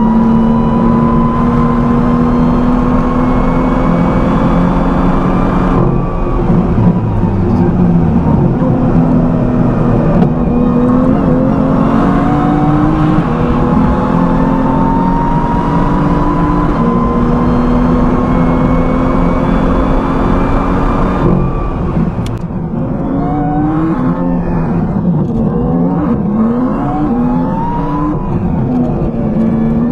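BMW M2's N55 turbocharged inline-six, heard from inside the cabin, pulling hard through the gears: the engine note climbs in pitch again and again, each climb broken by a shift. About three-quarters of the way in the driver lifts off, and the engine drops to lower, uneven revs with short rises and falls in pitch.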